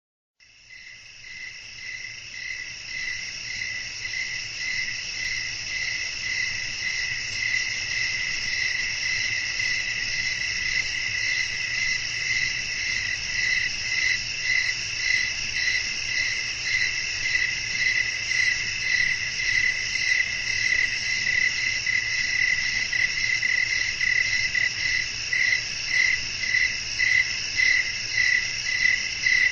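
Night chorus of crickets chirping, a steady high trill with a regular pulse, fading in over the first couple of seconds, over a faint low wind rumble.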